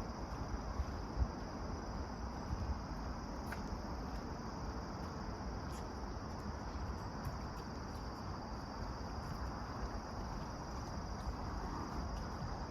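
Insects chirring in one steady, unbroken high buzz over a low rumble of wind and walking noise.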